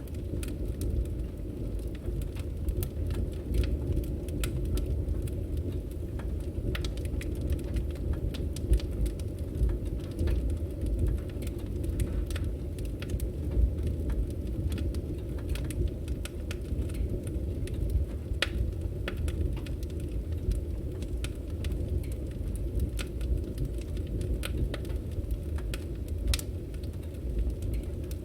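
Burning firewood: a steady low rumble of flames with frequent small crackles and pops scattered throughout.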